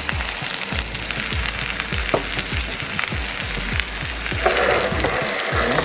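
Chicken pieces sizzling and crackling in a frying pan after a honey and citrus sauce has been poured in, the sizzle growing louder about four and a half seconds in. Background music with a steady beat plays under it.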